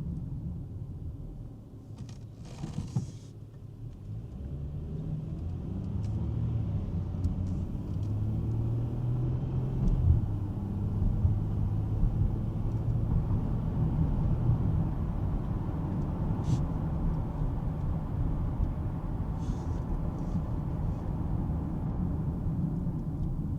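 A 2005 Lexus ES330's 3.3-litre V6 and its tyres running on the road, a steady low rumble. A brief rush of hiss comes about three seconds in. From about four seconds in the rumble grows louder and the engine note rises a little, then holds steady.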